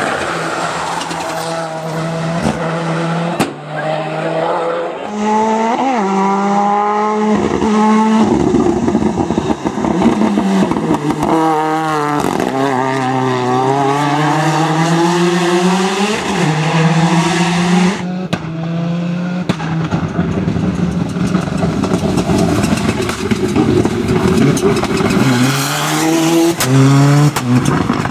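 Ford Escort rally car engine at full effort, its note climbing and dropping over and over as the driver shifts gears and lifts off between corners, with a few sharp cracks in the first few seconds.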